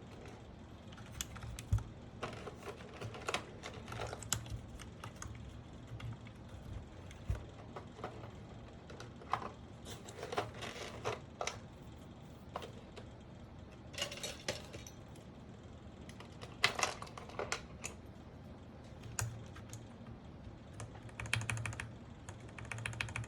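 Mechanical keyboard with Gateron Pro Milky Yellow linear switches being pressed: irregular clacking keystrokes in small clusters, with a fast run of keystrokes near the end.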